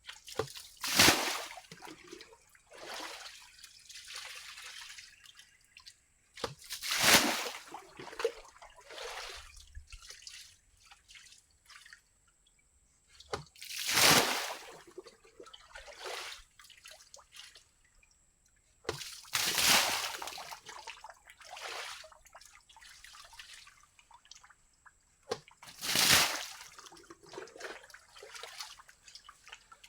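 Water splashing heavily five times, about every six seconds, each splash followed by smaller splashes and dripping, as water is scooped and thrown out to drain a fishing pool.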